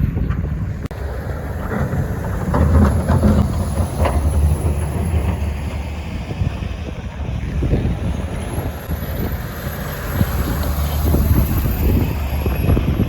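A heavy snow-clearing truck's engine running with a steady low rumble, swelling a few seconds in and again near the end.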